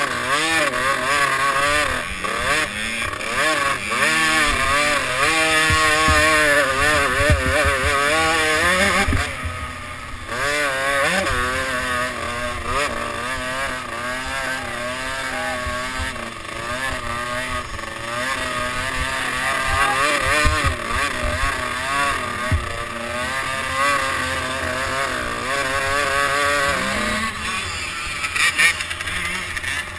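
Motocross bike's engine heard close up from on the bike, revving up through the gears and easing off again and again as it rides a rough dirt track. The pitch climbs and drops at each gear change or throttle lift, with a clear drop about nine seconds in and another near the end, and low knocks from the bumps throughout.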